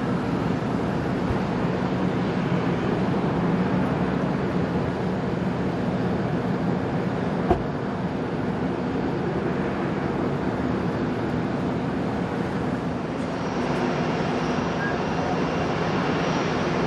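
Steady jet airliner engine noise, a low rumble with a high whine joining about 13 seconds in. A single sharp click about halfway through.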